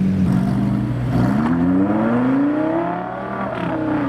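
A car engine accelerating hard as it pulls away, its pitch climbing steadily for about two seconds and then falling back near the end.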